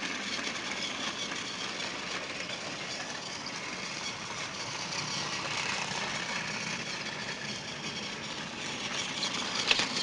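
Battery-powered Trackmaster Thomas toy engine running on plastic track, its small motor and gears whirring steadily. A couple of clicks come near the end.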